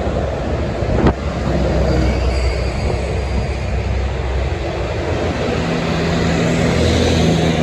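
Highway traffic with trucks passing: a steady low engine drone under tyre noise, which swells toward the end as a vehicle goes by. One short sharp click about a second in.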